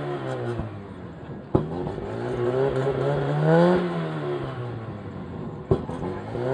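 Fiat 128's four-cylinder engine revved up and let fall back in long sweeps, backfiring through the exhaust with a sharp bang about a second and a half in and another near the end.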